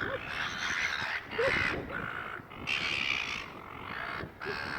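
Seagulls squawking: a run of harsh, raucous calls, each about a second long with short breaks between.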